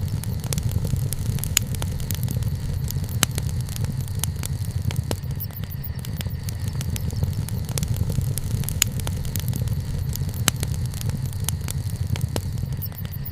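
Wood campfire burning: a steady low rumble from the flames with scattered sharp crackles and a few louder snaps of the burning wood.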